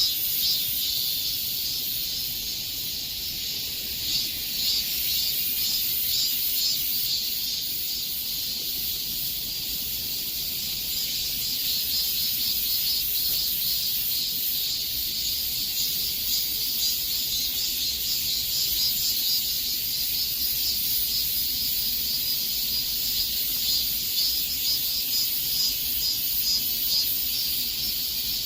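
Cicadas chorusing: a steady, dense, high-pitched buzz with a fast shimmering pulse running through it.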